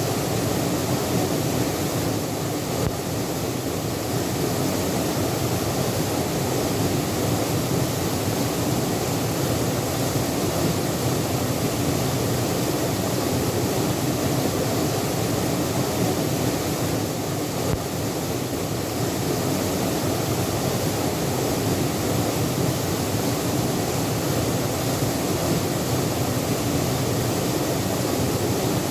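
Waterfall pouring steadily: a constant, even rush of falling water, deep and full-bodied, with no breaks.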